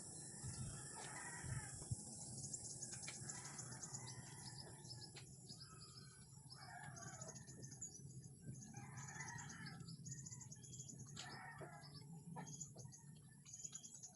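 Birds calling faintly and repeatedly, one call every second or two, with thin high chirps above them and a low steady hum underneath.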